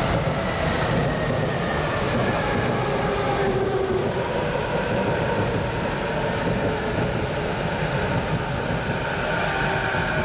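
An electric train running past at close range: steady rolling noise for the whole stretch, with a faint high whine that drifts slowly in pitch.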